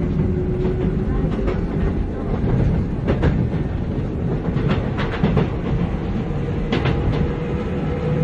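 Running sound inside a Keikyu 600 series (second generation) electric railcar with Toyo Denki electrical equipment: a dense rumble with a steady motor whine that rises slowly in pitch. Clusters of rail-joint clicks come every second or two.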